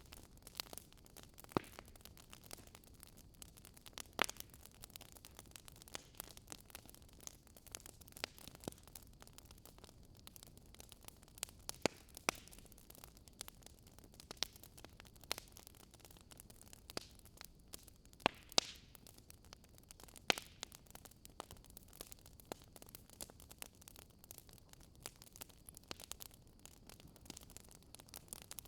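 Wood fire crackling in a fireplace: irregular sharp pops and snaps over a faint steady hiss, a few louder pops scattered through, the loudest a pair about two-thirds of the way in.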